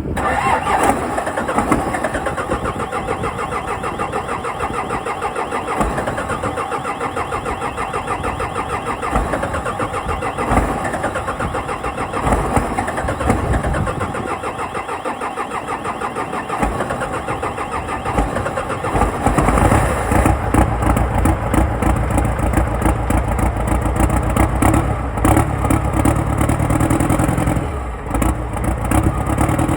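Cummins 4BT four-cylinder turbo diesel cold-starting: it turns over in an even rhythmic pulse for a long stretch, then catches about two-thirds of the way through and runs with a fuller, deeper sound.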